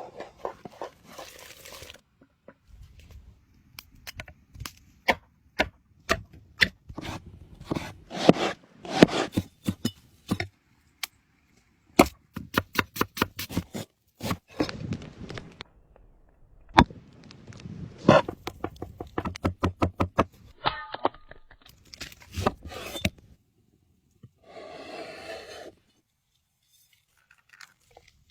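Food-preparation sounds: sharp knocks, some in quick runs, mixed with scraping, tearing and crunching noises, with short silent gaps.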